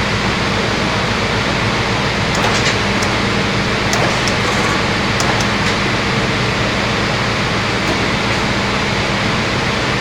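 Nevonka multi-blade circular sawing machine running steadily, with a loud even whir over a low motor hum and a few light ticks or knocks.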